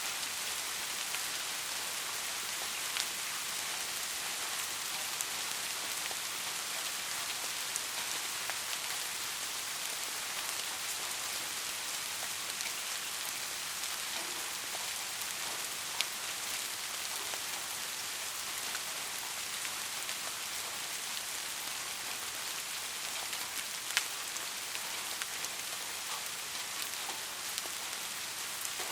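Steady rainfall, an even hiss with individual drops ticking through it and a few louder drop hits.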